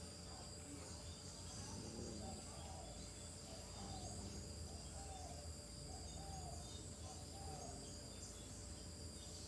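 Insects chirring steadily, with a low background rumble. A run of about half a dozen short rising-and-falling calls comes through faintly in the middle.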